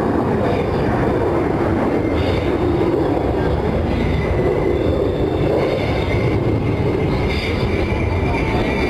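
B-2 Spirit stealth bomber's jet engines giving a loud, steady rumble as it flies by, with a faint high whine over it from about two seconds in.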